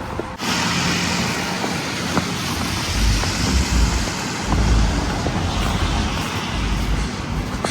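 Steady street traffic noise that starts abruptly about half a second in, with low rumbles partway through.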